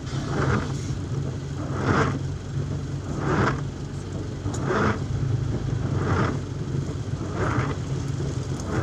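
Inside a car in the rain: a steady low engine and cabin hum, with the windscreen wipers swishing across the glass about every one and a half seconds, six sweeps.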